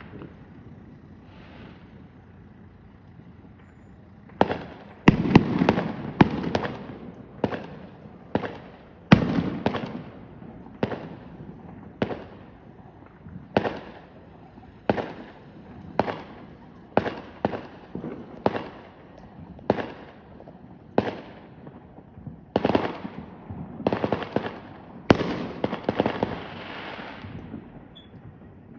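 Fireworks going off: after a few quiet seconds, a long string of sharp bangs, roughly one a second and sometimes in quick pairs, each trailing off in a brief crackle.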